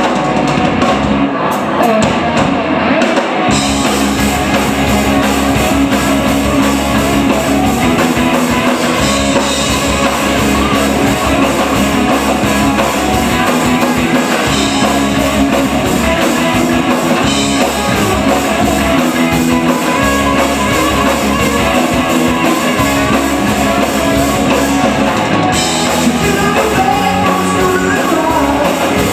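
Live hard-rock band playing electric guitars, bass and drum kit; the sound is thinner for the first few seconds, then the full band comes in.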